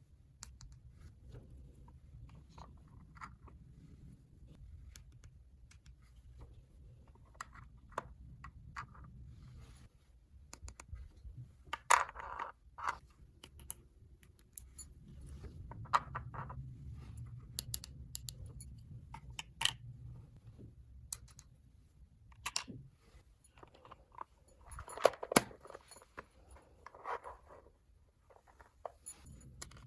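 Small plastic toy pieces being handled, with scattered clicks, taps and short scrapes, a few louder ones in clusters, over a faint low hum.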